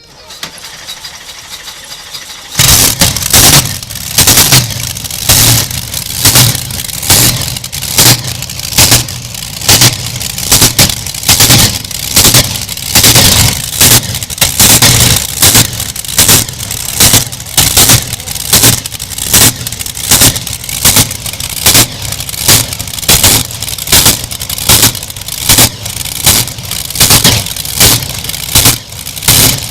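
The modified tractor engine of the show tractor Canadian Thunder is started: a rising noise for about two and a half seconds, then the engine catches and runs very loud and harsh. It surges in rhythmic bursts about once a second.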